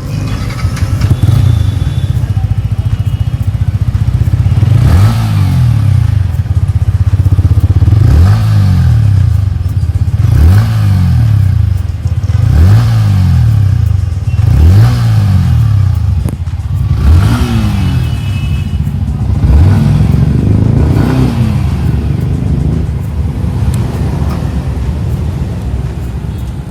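Yamaha MT-15's 155 cc single-cylinder engine through its stock exhaust, idling and then revved in about eight quick throttle blips some two seconds apart, each climbing in pitch and dropping back to idle, before settling to idle again near the end.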